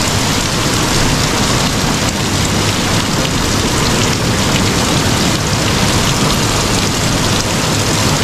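Torrential rain pouring down in a steady, heavy downpour.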